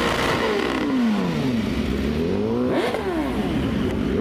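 A car engine being revved: the revs sink slowly over about two seconds, then shoot up sharply about three seconds in and drop back.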